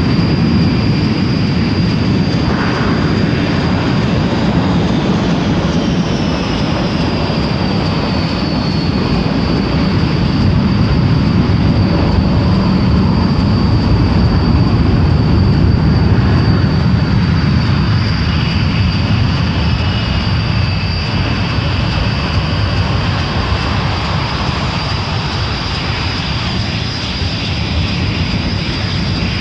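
Panavia Tornado GR1 jet engines running: a steady heavy rumble with a high turbine whine over it, the whine dipping slightly in pitch from about six to nine seconds in.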